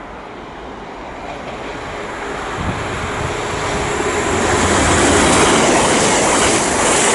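Class 221 Super Voyager diesel multiple unit approaching through the station, its rumble and rail noise growing steadily louder over about five seconds and staying loud to the end.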